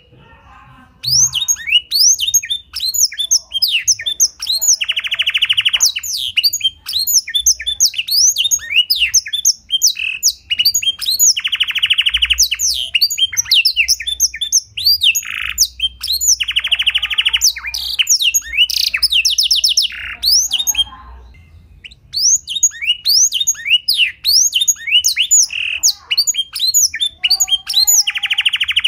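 Domestic canary singing a song learned from the black-throated canary: fast runs of high, downslurred chirps broken every few seconds by buzzy trills about a second long, with brief pauses about a second in and about two-thirds of the way through.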